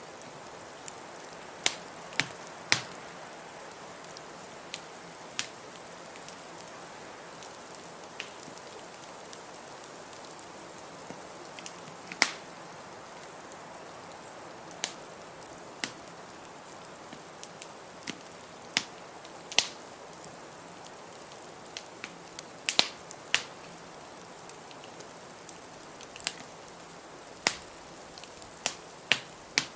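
Wood fire in a fireplace crackling: sharp irregular pops, about one a second, over a steady hiss.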